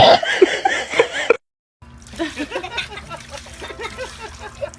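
A dog splashing in its drinking water, a quick run of small splashes and sloshes.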